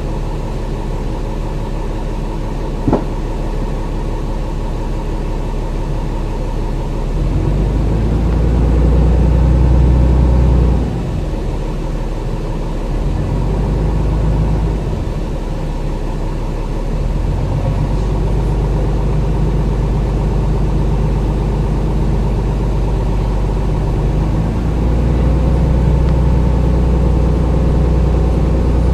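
Dennis Trident double-decker bus engine running under load through its Voith automatic gearbox. It builds in level, drops sharply about eleven seconds in as the gearbox changes, then builds again twice. There is a single click about three seconds in.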